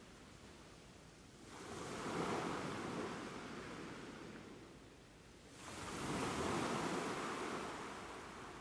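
Ocean waves breaking on a shore. Two waves rush in, one about a second and a half in and one past the middle, each swelling quickly and then washing back and fading.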